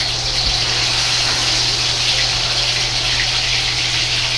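Sliced taro deep-frying in a wok of oil: a steady, even sizzle of many small bubbles, over a steady low hum. The taro went into the oil while it was still at a low temperature over medium heat, the first stage before the heat is raised gradually.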